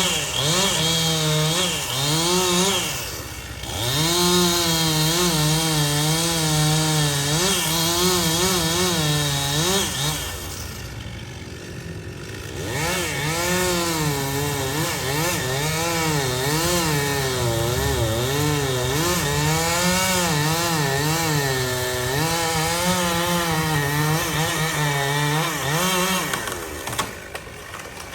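Two-stroke Stihl chainsaw running at high revs while cutting wood, its pitch rising and falling as the load and throttle change. The engine drops back briefly about three seconds in and for about two seconds near the middle, then eases off near the end.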